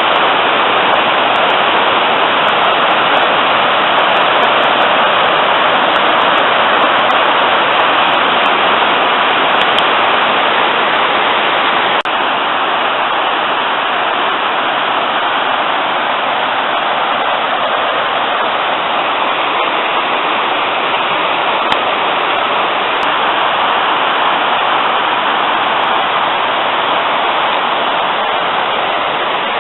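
Mountain river swollen after rain, rushing and tumbling down over rocks in cascades: a loud, steady rush of water, a little quieter from about twelve seconds in.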